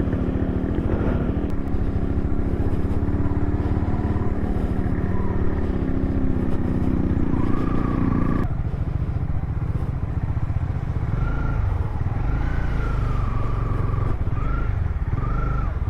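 Motorcycle engines running steadily at low revs, with an abrupt change in the sound about eight and a half seconds in.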